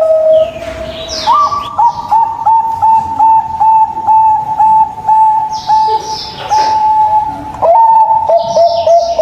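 Zebra doves (perkutut) cooing: two overlapping series of short, clipped coos at slightly different pitches, about three notes a second. Brief higher chirps of small birds come in now and then.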